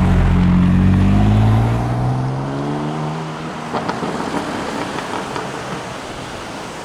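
BMW M4 F82's twin-turbo straight-six accelerating away: its engine note climbs steadily in pitch while the sound is loud at first and then fades after about a second and a half.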